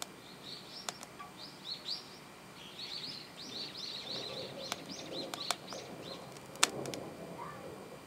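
A bird chirping in the background: a quick run of short, rising chirps over the first five seconds or so. A few sharp clicks are heard along with it, the loudest about six and a half seconds in.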